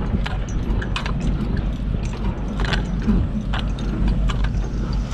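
Semi-trailer landing gear being hand-cranked up under load, its crank and gearbox clicking and clunking irregularly, over a steady low engine hum.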